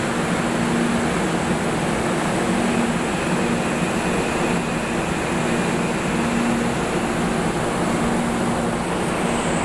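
MRT-3 light rail train standing at the station platform, giving off a steady running noise with a low hum that comes and goes.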